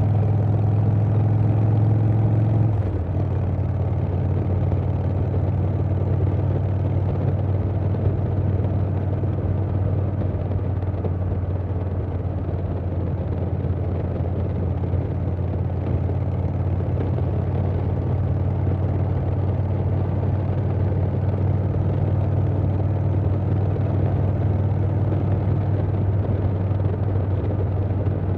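2020 Harley-Davidson Softail Standard's Milwaukee-Eight V-twin running through a Vance & Hines Big Radius 2-2 exhaust while the motorcycle is under way, with wind rush. The engine note drops a little about three seconds in, then holds steady.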